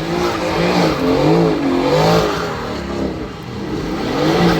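Car engine revved over and over in quick blips, its pitch rising and falling roughly every three-quarters of a second.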